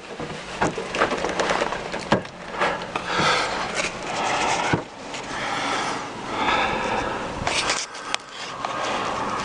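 Irregular scraping and rubbing with scattered sharp clicks and knocks, and no ringing tone.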